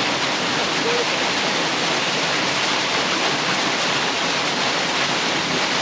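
Steady rush of flowing water, like a stream or small waterfall.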